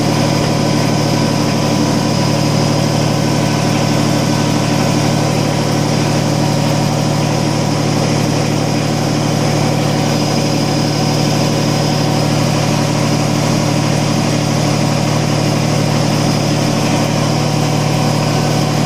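Kubota BX25D tractor's three-cylinder diesel engine running at a steady speed.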